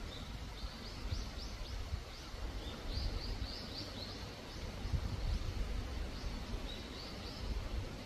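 A small bird calling in runs of short, high chirps, several a second, over a steady outdoor hiss and a low rumble.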